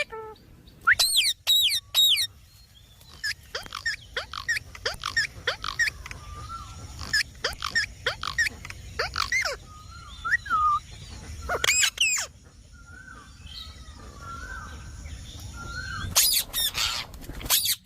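Indian ringneck parakeet giving short, sharp, high calls in scattered runs, with softer chattering notes in between and a quick flurry of calls near the end.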